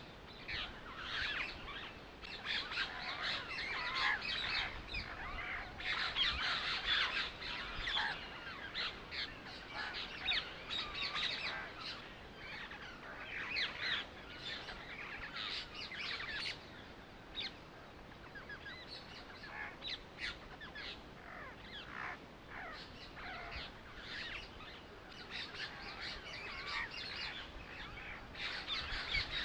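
Birds chirping: many short overlapping calls throughout, busiest in the first half and thinning out in the second.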